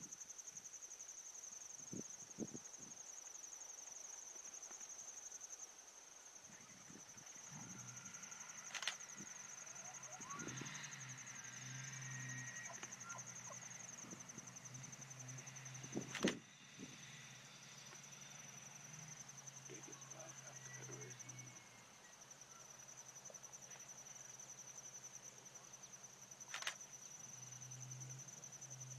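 Crickets chirring steadily in a fast, high pulsing trill. A low hum comes and goes, and there are three sharp knocks: about nine, sixteen and twenty-seven seconds in.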